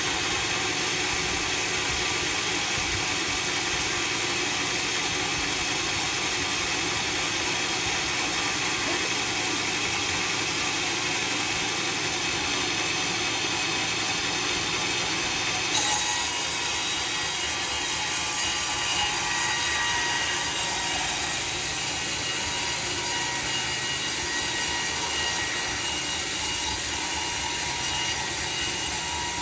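Homemade sawmill running, its saw cutting through a log with a steady mechanical hiss and whir. About halfway through a short sharp knock is heard, and after it the cutting sound turns brighter and hissier.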